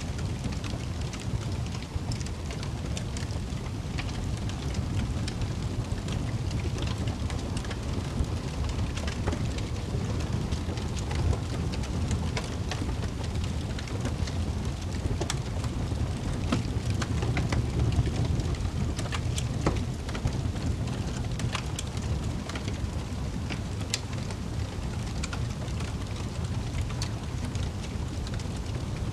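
Wood fire burning in a fireplace: frequent irregular crackles and sharp pops over a steady low rumble of flames.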